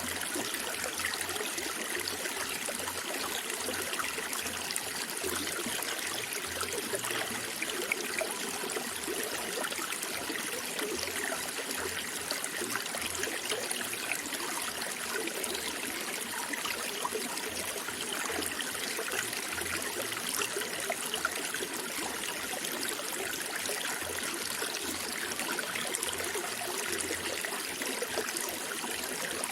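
Running water, a small stream trickling and babbling steadily, with many small splashes.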